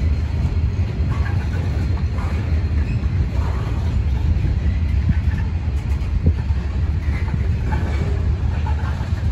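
Freight train's covered hopper cars rolling past: a steady low rumble of steel wheels on the rails, with scattered faint clicks and light squeals.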